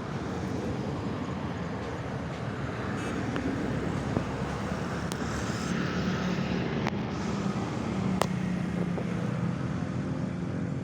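Electric RC ornithopter running on a 2S battery: its small motor and gearbox driving the flapping wings make a steady mechanical hum, with a few sharp clicks.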